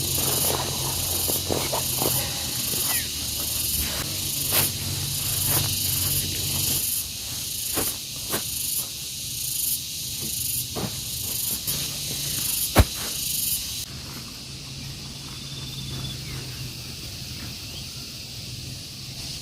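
High-pitched insect buzz pulsing about one and a half times a second, with scattered small clicks and snaps. The buzzing stops about fourteen seconds in, leaving a quieter outdoor background.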